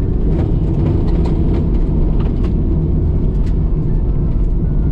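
Mitsubishi 3000GT VR4's twin-turbo V6 and tyres giving a loud, steady rumble while driving over a rough, muddy dirt track, with scattered ticks and knocks throughout.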